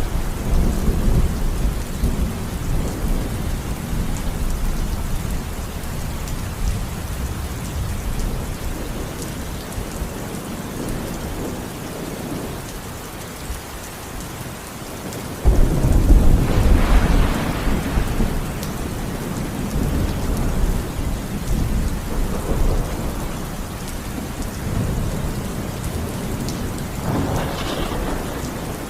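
Thunderstorm: steady rain falling, with rolling thunder. A sudden loud thunderclap about halfway through rumbles on for several seconds, and a lighter rumble comes near the end.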